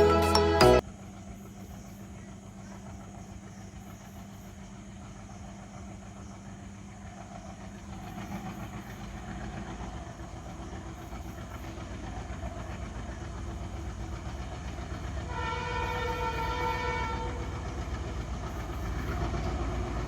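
After a brief end of music, an ALCO diesel locomotive approaches with its engine rumbling and growing steadily louder. It sounds its horn, a chord of several tones, for under two seconds about three-quarters of the way in.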